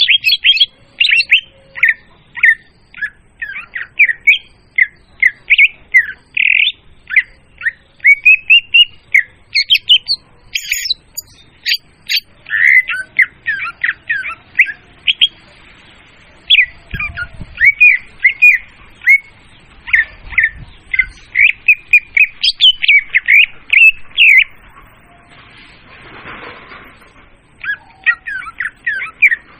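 Leafbird (murai daun) song, as used for a bird-trapping lure call. It is a fast, loud run of short whistled and chattering notes that slide up and down, broken by two short pauses.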